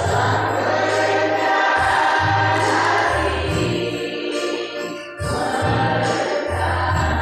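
A choir singing in sustained, held phrases over a strong low bass line, with a brief break between phrases about five seconds in.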